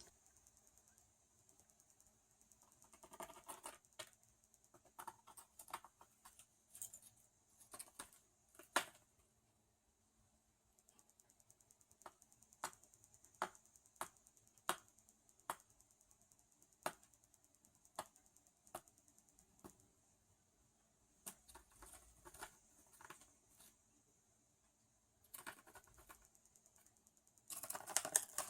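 A budgie chewing and biting cardboard: faint sharp clicks and short scratchy bursts, with a steady run of single bites about once a second through the middle and a denser flurry of chewing near the end.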